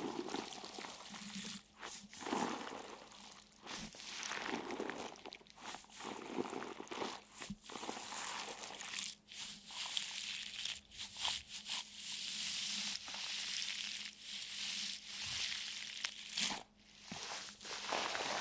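Irregular crunching and crinkling noises, uneven bursts with short pauses between them.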